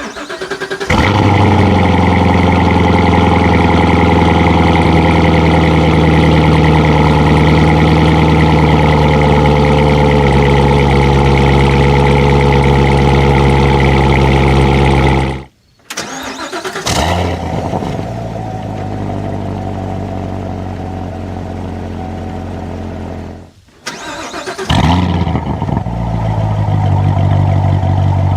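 2016 Chevrolet Corvette Stingray Z51's 6.2-litre LT1 V8 with its multi-mode exhaust, started three times. It catches with a rev flare and settles into a loud, steady idle that eases slightly partway through, then is switched off about fifteen seconds in. It restarts into a quieter idle, is switched off again, and near the end restarts with a short flare into a louder idle.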